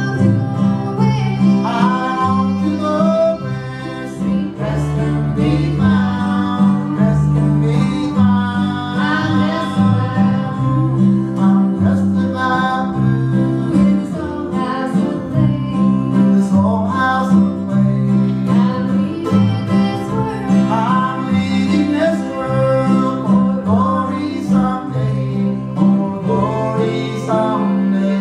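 Old-time string band playing a tune live: fiddle, mandolin, guitar and upright bass, the bass moving in steady steps underneath.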